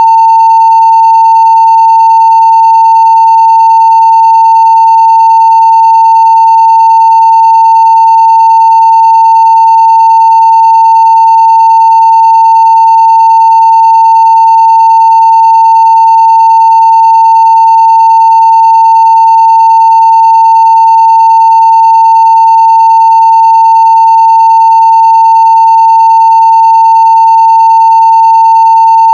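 Steady 900 Hz sine-wave test tone at full scale (0 dB): one unbroken, unchanging pitch with faint higher overtones.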